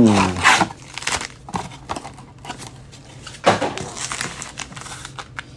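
Trading-card packaging (a blaster box and its foil packs) being torn open by hand: irregular crinkling and tearing with small clicks, and a louder rip about three and a half seconds in.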